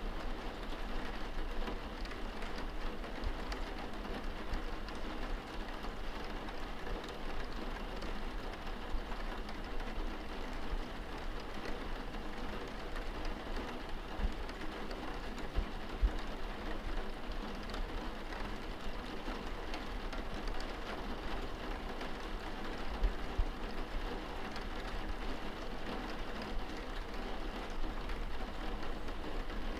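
Rain pattering steadily on window glass, heard from indoors, with a low rumble underneath. A few heavier low thumps come about halfway and about three quarters of the way through.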